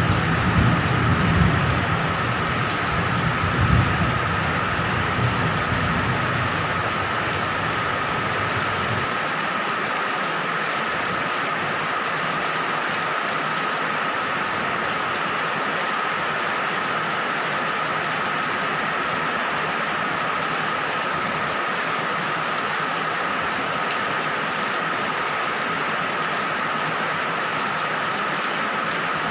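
Steady heavy rain, with a low rumble of thunder that dies away about nine seconds in. A steady high tone sounds through the rain.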